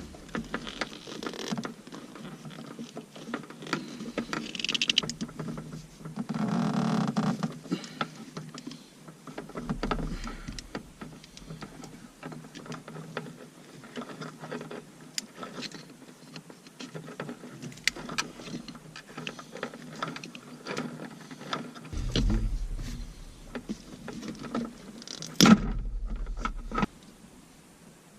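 Irregular clicks, taps and rustling of hand work with tools. Near the end there are a couple of brief low rumbles and one sharp knock.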